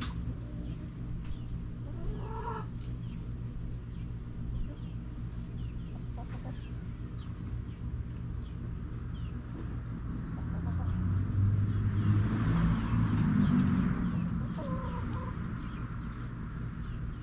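Backyard chickens clucking now and then over a steady low hum. A louder swell of low noise builds and fades about eleven to fourteen seconds in.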